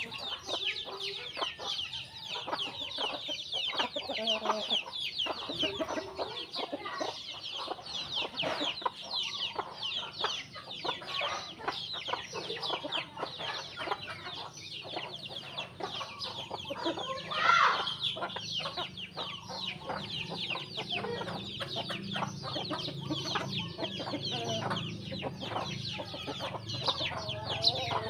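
A flock of sparrows chirping continuously in dense, overlapping chatter, with chickens clucking underneath. One louder chicken call stands out about two-thirds of the way through.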